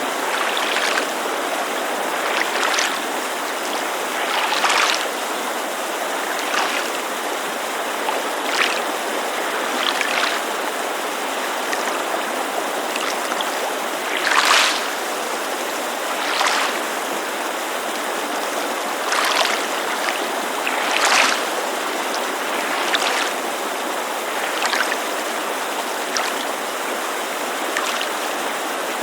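Small waves lapping at a lake shore, a soft splash every second or two, a little louder about halfway through and again about two-thirds in, over the steady rushing hiss of a mountain creek.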